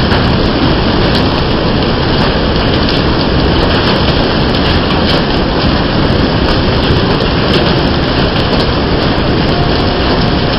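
Heavy rain pouring down steadily, dense and loud, with many sharp ticks of impacts scattered through it.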